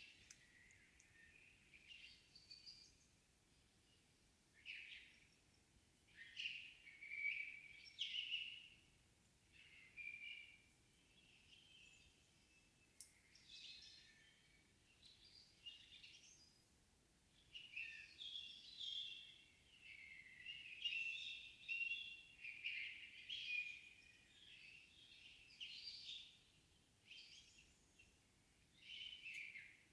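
Songbirds singing faintly in a forest, a string of short, varied chirping phrases every second or two, with no wind.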